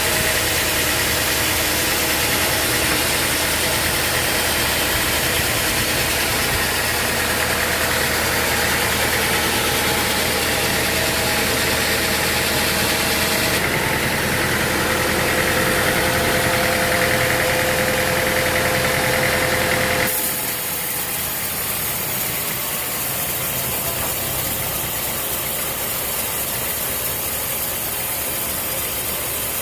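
Sawmill machinery running steadily, a motor-driven saw rig with a constant hum. The sound changes abruptly twice, the second time about two-thirds of the way through, and is a little quieter after it.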